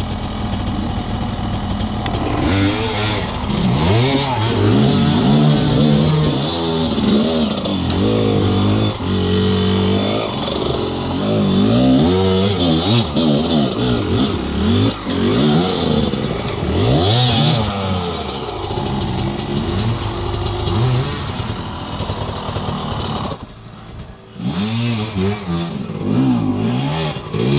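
Enduro dirt bike engine revved hard again and again as the throttle is worked, its pitch repeatedly climbing and falling, typical of riding up a rough, technical trail section. It briefly drops off near the end, then revs up again.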